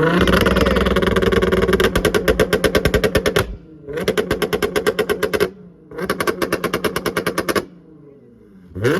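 Car exhaust firing rapid pops, about nine a second, in three long runs with brief pauses between them, sounding like machine-gun fire while the engine is held revved.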